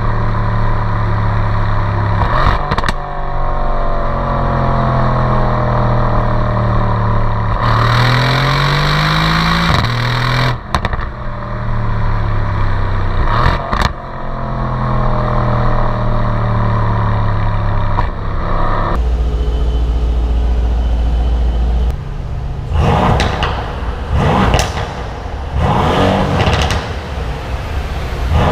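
2017 Mercedes-AMG C63's twin-turbo 4.0-litre V8 on its stock exhaust, pulling and slowing with the revs falling and rising and a few sharp cracks. Later a deep rumble and then a run of short revs in quick succession.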